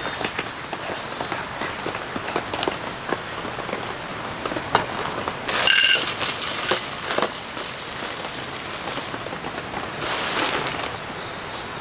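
Rain pattering steadily on a tent, with scattered drip ticks. About five and a half seconds in, a packet crinkles loudly and dry cereal flakes pour into a metal camping bowl; the packet rustles again near the end.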